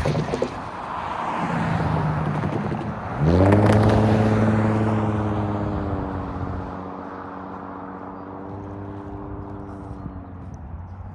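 Union Pacific freight train at a grade crossing: a rumbling, noisy passing sound, then a loud droning tone that swoops up in pitch about three seconds in, holds steady and slowly fades.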